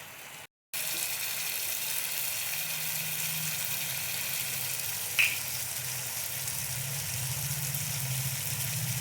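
Chicken sizzling as it fries in a pan, a steady hiss with a low hum underneath, after a brief dropout just at the start. A single short clink about five seconds in.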